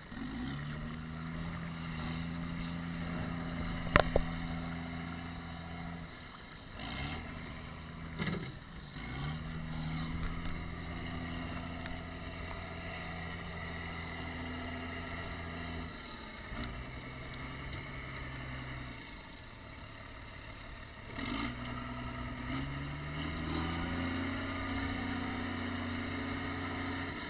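Tractor engine running and working under load, its pitch stepping up and down as it revs, cutting out and coming back several times. There is a sharp crack about four seconds in.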